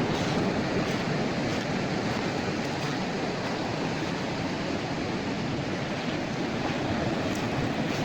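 Surf on a beach: a steady rush of breaking waves with no clear pause.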